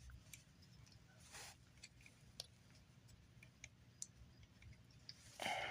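Near silence with faint, scattered clicks of hard plastic action-figure parts being handled. The fist is being tried in a 3D-printed upgrade arm.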